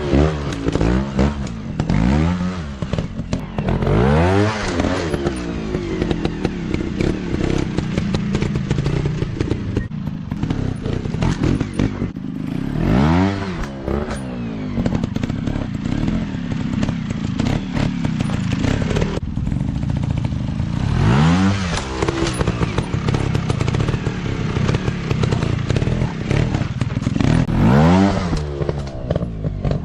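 Off-road dirt bike engines running, revved hard several times with the pitch climbing and dropping back each time, over a steady engine note underneath.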